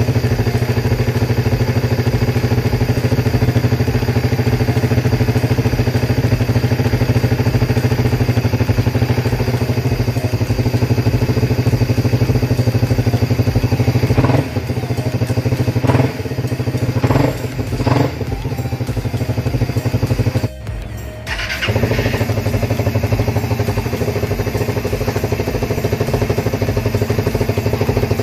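Suzuki Raider R150 Fi single-cylinder four-stroke engine running steadily while it warms up, circulating fresh oil after an oil and filter change. The exhaust is noisy even with a silencer fitted, and the sound dips briefly a little past two-thirds of the way through.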